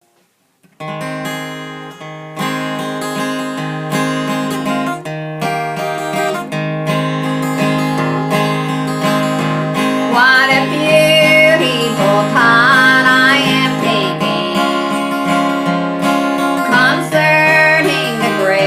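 Acoustic guitar strumming a slow country gospel tune, starting about a second in. From about ten seconds in, a lead melody line that slides in pitch plays over it.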